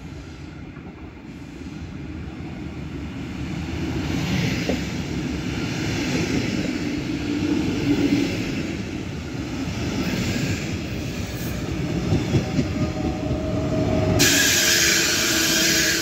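Double-deck regional train passing along the platform: the rumble of wheels on rails builds over several seconds and stays loud. About 14 seconds in, a loud high-pitched squeal comes in suddenly.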